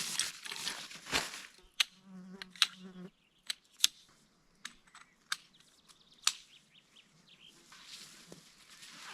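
A flying insect buzzing close by in two short spells within the first three seconds. Several sharp clicks or snaps are scattered through the first six seconds, and a soft hiss builds near the end.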